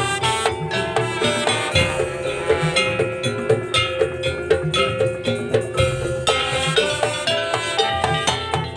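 Madurese daul (tongtong) percussion ensemble playing: fast, even rhythm of pitched struck notes over drum hits.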